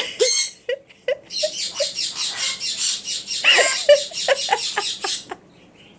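Pet birds chirping in a quick run of short, high chirps, about six a second, with one louder squawk of bending pitch in the middle; the chirping stops shortly before the end.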